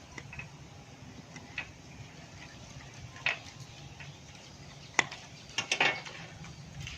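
Scattered sharp clicks and knocks, loudest in a cluster about five to six seconds in, over a faint steady low hum.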